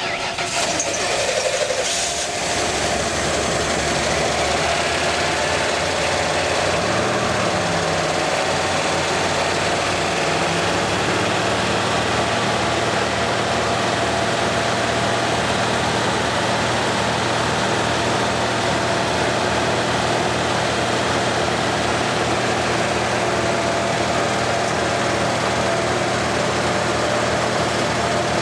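Old GMC and Ford truck engines being run to destruction, kicking in abruptly, uneven for the first couple of seconds, then settling into a loud, steady run with a slight rise and fall in pitch within the first ten seconds.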